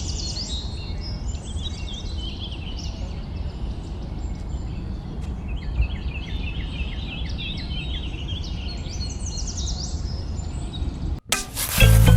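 Small birds chirping in quick sweeping calls over a steady low rumble, then a sudden loud burst of noise and a few clicks near the end.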